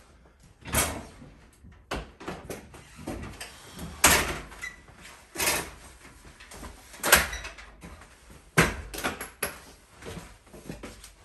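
A series of sharp knocks and thuds, roughly a second or two apart, with quieter clatter and rustling between them, as of objects being handled and set down.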